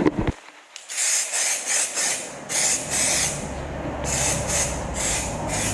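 A 2K aerosol paint can spraying in several short bursts of hissing, with brief pauses between them, over a low steady hum.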